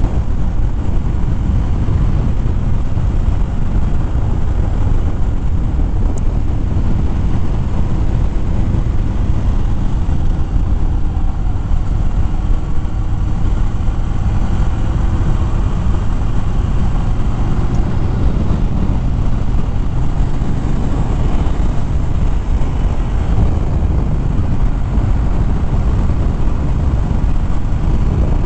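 A 2013 Harley-Davidson Fat Bob's V-twin engine running as the motorcycle rides along at road speed, its pitch drifting slightly with the throttle under a steady low rush of wind and road noise.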